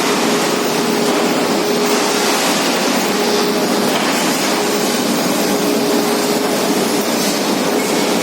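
Electric arc furnace arcing during start-up: a loud, steady harsh noise with a hum that breaks off briefly now and then.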